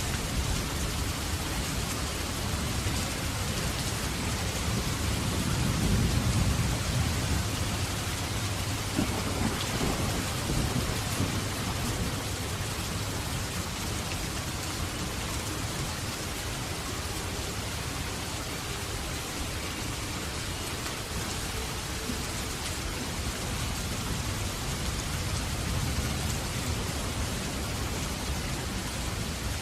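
Steady heavy rain falling, with a low rumble of thunder swelling about six seconds in and rolling on for several seconds.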